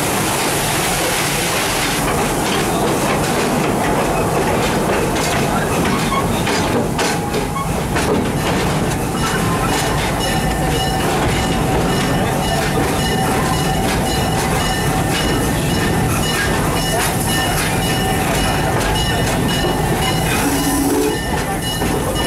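Park passenger train running along its track, heard from an open car right behind the locomotive: a steady rumble with the wheels clicking over rail joints. A thin high tone joins about nine seconds in.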